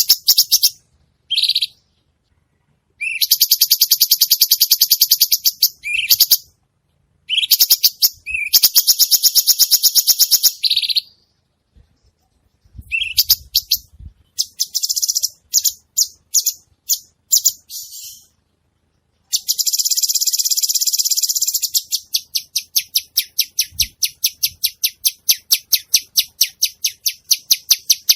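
Cucak cungkok singing vigorously: loud, high-pitched bursts of rapid trilled chatter with short pauses between them, ending in a steady run of about four sharp chirps a second.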